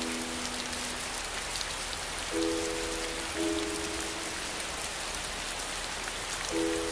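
Steady heavy rain hissing without pause. Soft held musical chords sound under it: one fades out about a second in, and two more follow in the middle.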